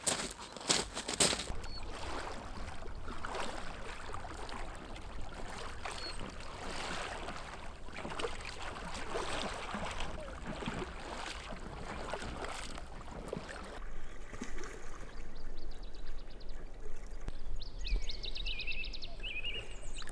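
Paddle strokes from Alpacka packrafts on calm lake water: the blades dip, swish and drip in an uneven rhythm. About two-thirds of the way in the strokes ease off, and a fast, high trill sounds a few times near the end.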